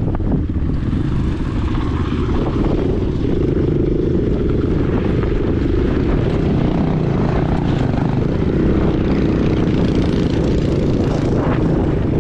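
Dirt bike engine running under way, its pitch shifting with the throttle, mixed with heavy wind buffeting the unprotected microphone.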